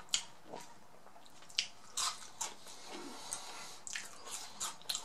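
A person chewing a mouthful of sandwich and fries close to the microphone: irregular wet smacks and short sharp mouth clicks.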